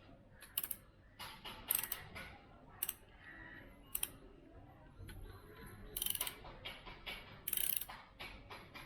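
Ratchet wrench tightening the 13 mm nut of a motorcycle exhaust silencer clamp: repeated short bursts of ratcheting clicks, several strokes with uneven pauses between them.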